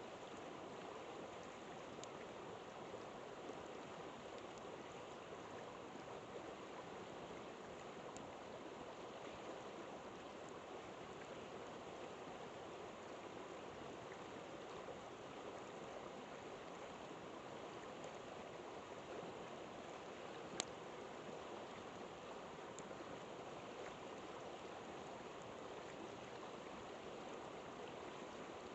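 A river flowing steadily, a continuous rushing of water, with a few faint sharp pops from the campfire, the clearest about two-thirds of the way through.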